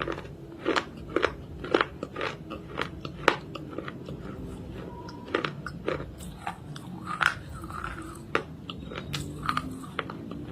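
Close-up, irregular dry crunching as someone bites and chews a hard, brittle piece, with sharp cracks about once or twice a second.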